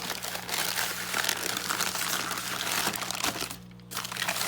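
Packing wrap crinkling as a toy train car is unwrapped by hand, with a brief pause about three and a half seconds in.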